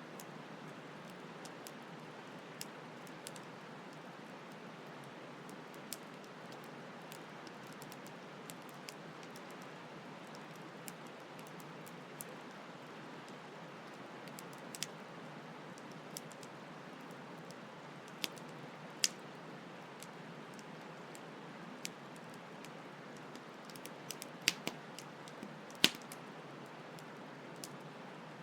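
Campfire crackling, with scattered sharp pops and a few louder snaps in the second half, over the steady rush of a flowing stream.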